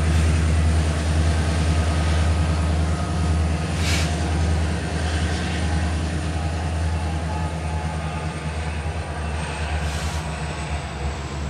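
Diesel freight locomotives, led by CN SD70M-2 8013, run at low speed with a steady deep engine drone and the rumble of the train behind them. Two brief high-pitched noises come about four seconds in and again near the end.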